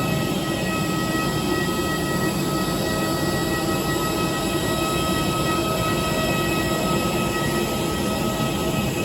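Steady engine noise: a continuous low drone with several high whine tones held level over it.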